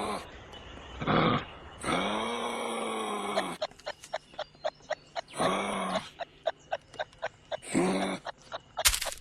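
An animal calling: four drawn-out pitched calls, the longest about a second and a half, with a run of quick clicks between the second and third calls.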